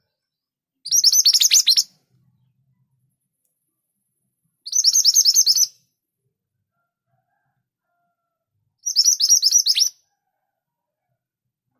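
Scarlet minivet calling: three bursts, each about a second of rapid high notes, spaced about four seconds apart.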